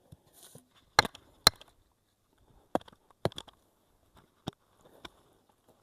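Wooden marking stakes being knocked into the ground: a series of sharp, irregular knocks, the loudest two about a second in.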